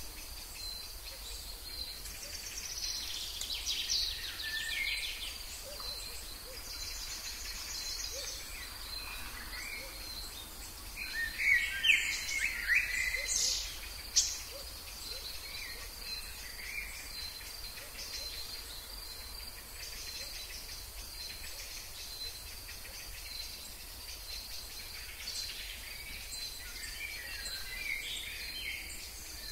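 Wild birds calling in a steady high insect drone, with a cluster of louder calls about halfway through.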